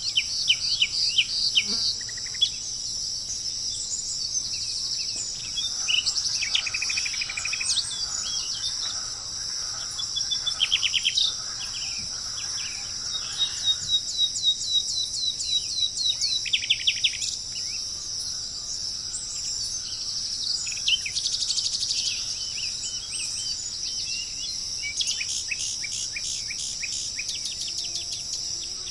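Wild birds calling in repeated bursts of rapid, high chirping notes over a steady, high-pitched insect drone.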